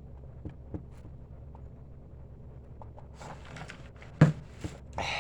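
A steady low hum under scattered light clicks and rustling, with one sharp, loud thump just after four seconds in.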